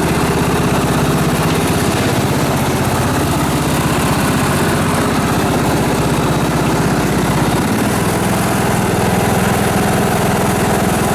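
Simplicity garden tractor's small engine running steadily near idle, its note shifting lower about three-quarters of the way through.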